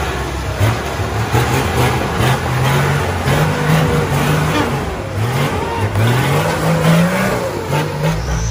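Off-road 4x4 vehicle's engine revving repeatedly, its pitch climbing in a series of short rising runs over a steady rough wash of noise.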